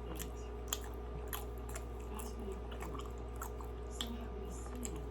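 Chewing a soft Krispy Kreme doughnut: scattered wet mouth clicks and smacks over a steady low hum.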